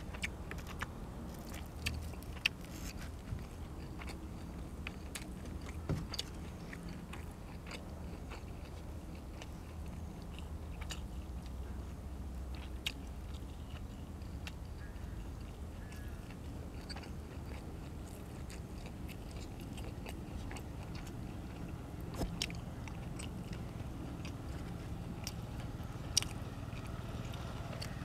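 A person chewing and biting into braised pork ribs and fresh vegetables, with scattered short crunches and clicks over a low steady rumble.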